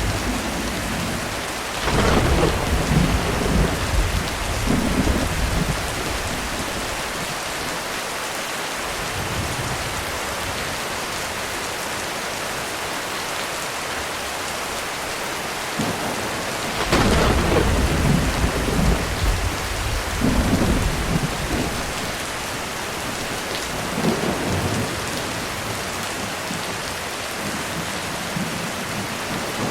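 Heavy rain falling steadily on a roof, with thunder rumbling twice: a loud clap about two seconds in that rolls on for several seconds, and another starting just past halfway, followed by fainter rolls.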